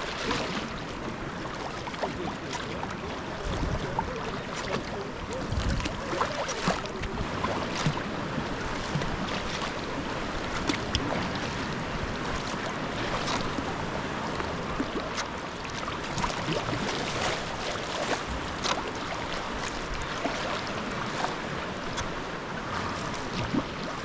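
Sea kayak being paddled: water splashing and swishing around the paddle blades and hull, with short, sharp splashes every second or two over a steady wash of the sea.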